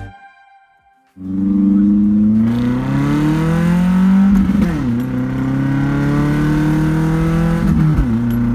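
The Nissan 240SX's engine and exhaust under hard acceleration, starting about a second in. The pitch climbs steadily through a gear, drops at a gear change in the middle, then climbs again to another shift near the end.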